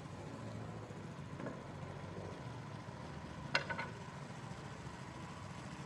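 A steady low engine hum, as from a vehicle running. About three and a half seconds in there is a short cluster of sharp clicks.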